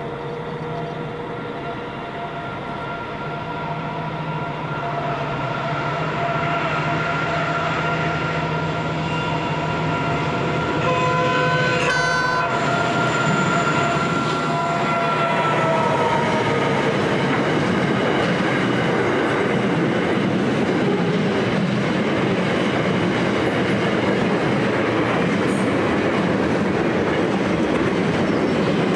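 A diesel freight locomotive sounds a long multi-note horn as it approaches. The horn's pitch drops as it passes, about fifteen seconds in. After that come the steady rolling noise of the container wagons on the rails and the running of the locomotive's engine.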